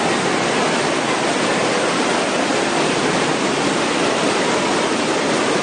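Floodwater rushing, a loud steady noise without let-up.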